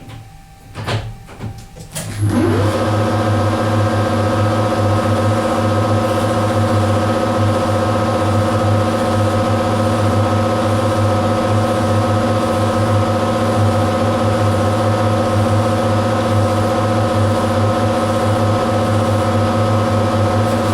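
A few clicks, then about two seconds in a lathe's electric motor starts, its pitch rising briefly as it spins up, and runs on at a steady speed with a constant hum.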